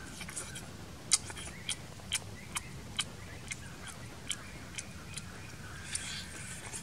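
A man chewing and crunching a whole cooked balloon frog close to the microphone, with sharp, irregular crunches roughly twice a second and a noisier bite about six seconds in.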